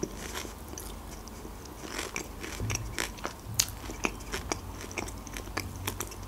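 Close-miked chewing of a crisp fried McDonald's dessert pie with berry filling, with irregular small crunches of the flaky crust.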